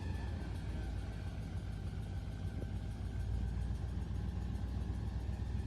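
Steady low rumble of a running engine, even throughout.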